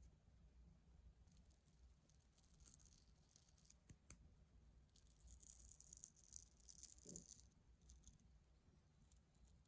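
Near silence, with two faint spells of light high-pitched rattling, the second about halfway through, and a few faint clicks.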